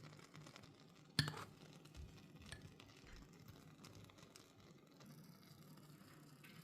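A single sharp clink, like a spoon or utensil striking a dish, about a second in, followed by a few faint taps over a quiet, low room hum.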